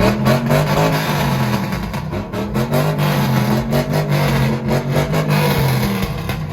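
A car engine revving and held at high revs, a loud pitched drone that steps slightly in pitch, with sharp crackles over it.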